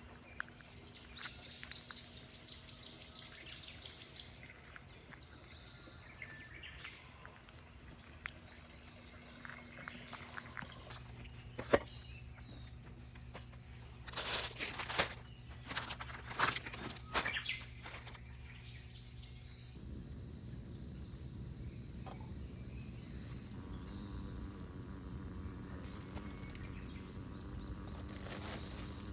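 Small birds chirping in a quick run of high notes over steady outdoor background noise, with a few sharp knocks and clattering about halfway through.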